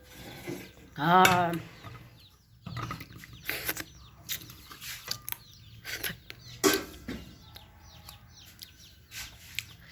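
Chickens clucking, with short calls coming at scattered moments.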